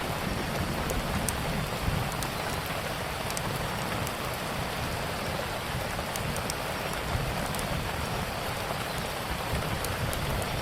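Steady heavy rain with a low rumble underneath, and the sharp, scattered crackles of a wood fire popping through it.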